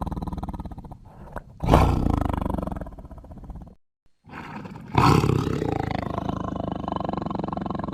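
Big-cat roar sound effects made for a sabre-toothed cat (Smilodon): a roar dies away, a new roar breaks out about two seconds in, and after a brief silent cut another loud roar begins at about the middle and slowly fades.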